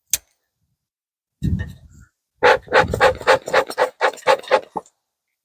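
Bee smoker bellows pumped rapidly, puffing air through the firebox about four times a second for a couple of seconds, after a single click and one longer breathy puff.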